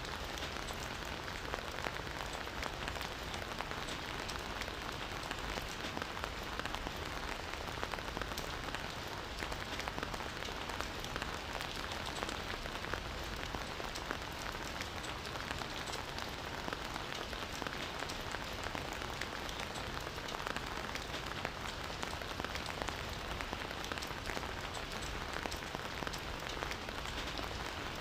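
Steady rain falling on foliage and ground, a constant hiss with many small drop ticks.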